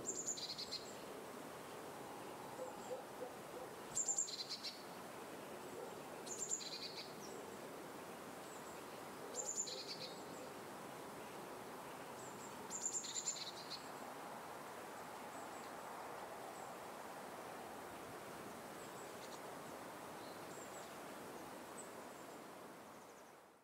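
A bird calling five times, every three to four seconds, each a short, high call stepping from a higher note down to a lower one, over a steady hiss of outdoor ambience. The sound fades out at the very end.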